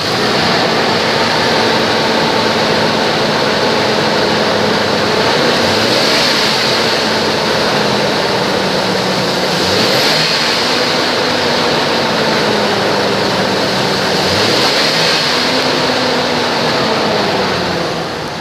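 2007 GMC Envoy engine running at idle, revved up and back down three times, about six, ten and fifteen seconds in.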